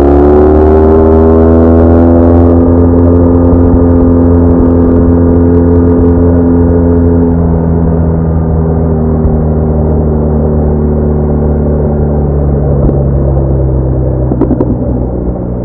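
BMW R1200R boxer-twin motorcycle engine under way. Its note rises briefly at the start, then eases slowly down as the bike slows, over a steady low wind rumble, with a few short ticks near the end.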